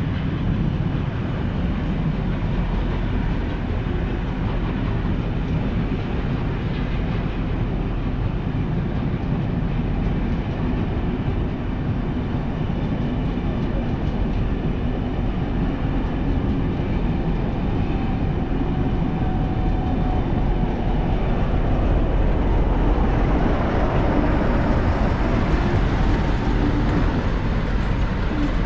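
A train running past on the line, a steady rumble that grows louder about two-thirds of the way in.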